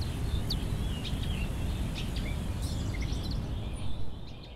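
Small birds chirping and calling in short scattered notes over a steady low outdoor rumble.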